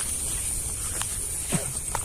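Footsteps of people walking on a path, with a couple of sharp clicks over a steady high-pitched hiss, and a short falling voice-like sound about one and a half seconds in.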